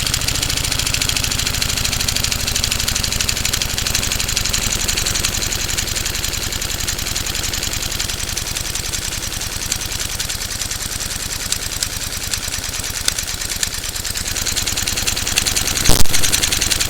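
Single-cylinder Lego vacuum engine running on a big flywheel: a rapid, even chatter of piston and valve strokes. There is a sharp knock near the end.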